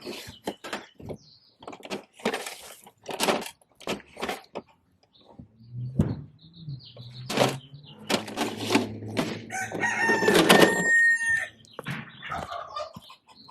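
Irregular clatter and knocks of a plastic Bruder toy garbage truck being handled. About ten seconds in, a steady pitched call or squeal is held for about a second and a half over a low hum.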